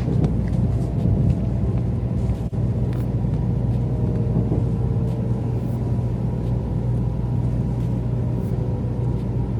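Sanyo Shinkansen train running, heard inside the passenger cabin as a steady low rumble with a faint hum.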